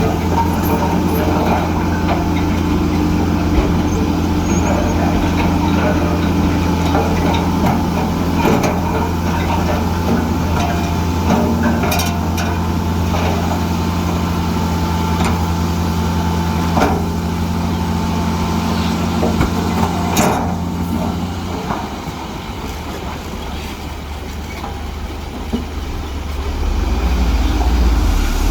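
Heavy diesel engine of earthmoving machinery running steadily under work, with a few sharp metallic knocks. About three-quarters of the way through the engine note drops and eases off, then builds up again near the end.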